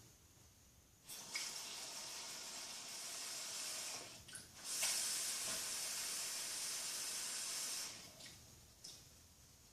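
Water running from a tap into a container, in two runs of about three seconds each with a brief break between.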